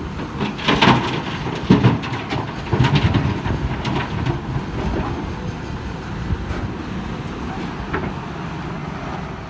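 Excavator's diesel engine running, with several loud clanks and clatters in the first three seconds, then a steadier rumble.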